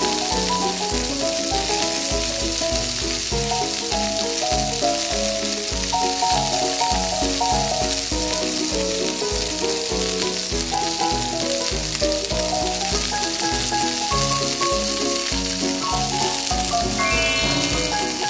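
Hot oil sizzling steadily in a miniature frying pan as a small crumb-coated patty fries, over light background music.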